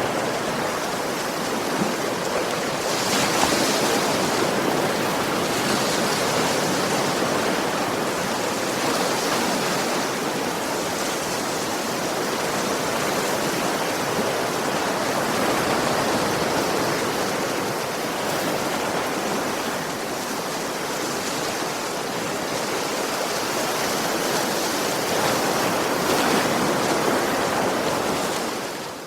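Sea waves washing onto a shore: a continuous rush of surf that swells and eases every several seconds.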